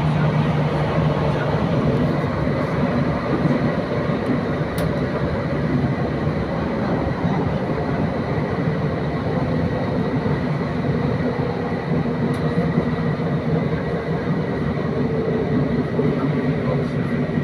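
Electric train on the Hakodate Main Line, heard from inside the car: the steady rumble of wheels on rails and running gear as the train runs toward its next stop.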